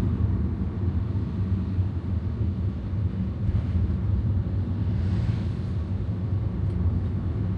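Vehicle engine running steadily on the move, a low rumble with a fast, even pulse.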